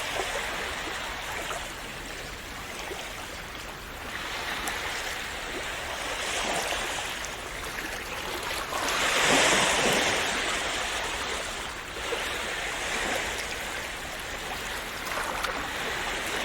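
Calm sea waves washing and splashing on the shore, a steady rush that swells and ebbs, with the biggest wash about nine seconds in.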